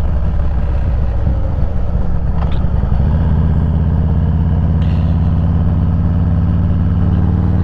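Harley-Davidson Road Glide Special's V-twin engine running steadily while the motorcycle rides along, its low drone steadying and strengthening about three seconds in.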